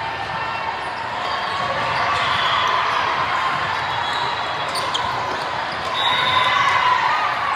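Echoing hubbub of a crowd in a sports hall, with a few short high squeaks, like sneakers on a court floor, and faint knocks.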